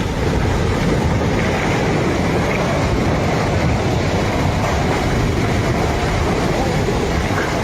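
Loud, steady rushing of a floodwater torrent.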